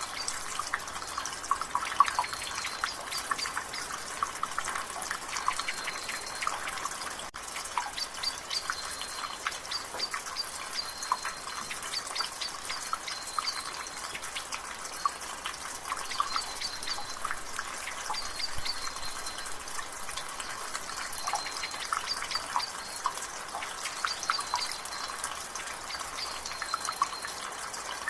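Rain water dripping from a gutter: a fast, irregular patter of drops over a steady drizzle hiss. A bird repeats a short, high, thin note in the background.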